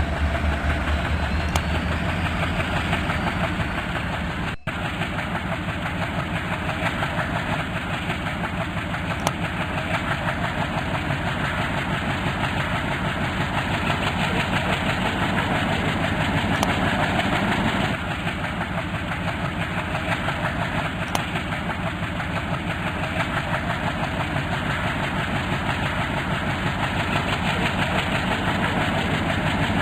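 Moving train with its WDP4 diesel locomotive's engine running: a steady mechanical rumble and engine drone. There is a brief break in the sound about four and a half seconds in.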